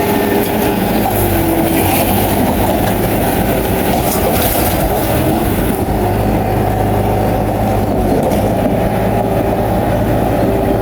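Crawler bulldozer working: its diesel engine runs steadily under load while the steel tracks clank and rattle.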